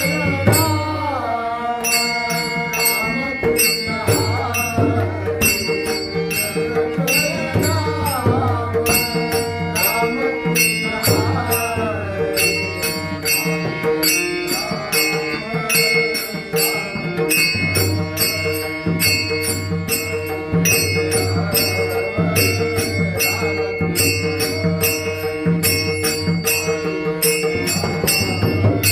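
Marathi Varkari devotional bhajan: a male singer's voice sliding through ornamented phrases over a steady drone, with small hand cymbals striking a steady beat several times a second and a drum underneath.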